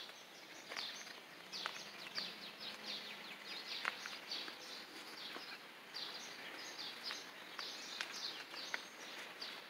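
Birds chirping faintly: a steady run of short, falling chirps repeating over quiet outdoor background noise, with a few soft clicks.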